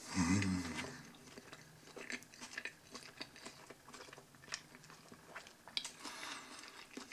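A person chewing a mouthful of hamburger close to the microphone, making irregular soft wet clicks and crunches. It opens with a short hummed vocal sound that is the loudest part.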